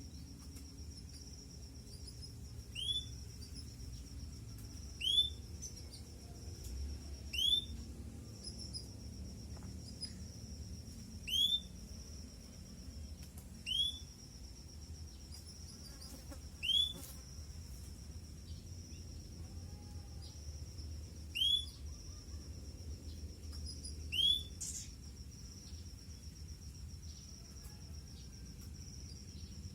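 Canary giving single short rising call notes, one every two to three seconds, over a steady high-pitched insect trill.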